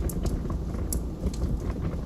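Log fire crackling: frequent sharp, irregular pops and snaps over a steady low rumble of the burning fire.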